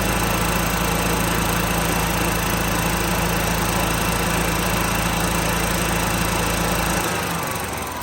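Kawasaki EFI engine of an EZGO TXT gas golf cart running steadily at high speed, held at about 3,360 rpm, which sets the check engine light's 2 code (throttle position sensor out of adjustment). About seven seconds in it slows and dies away.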